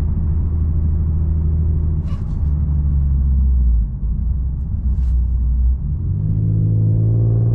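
Infiniti Q50S exhaust with a modified cat-back (Vibrant Super Quiet and Flowmaster resonators), heard from inside the cabin as a low, steady drone at around 1500 rpm while driving slowly. The drone dips slightly in pitch about two and a half seconds in, then steps up about six seconds in as the revs climb and it gets louder.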